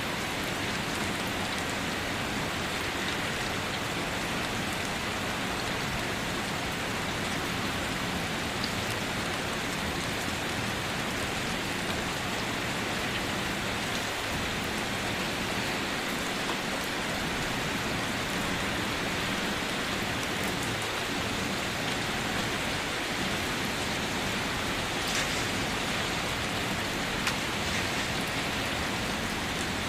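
Steady rain drumming on a car, an even hiss of falling drops with a few sharper single drop ticks now and then.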